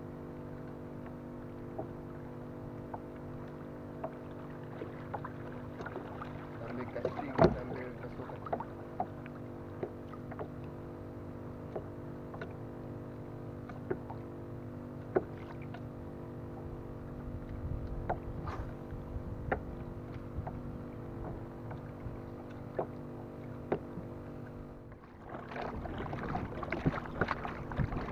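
Knocks and taps on a kayak over a steady low hum. Near the end it gives way to a busier stretch of clattering and water noise.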